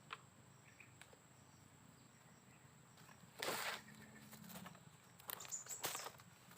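Quiet outdoor ambience with a steady high insect whine. A short rustling burst comes about halfway through, and a few more come near the end.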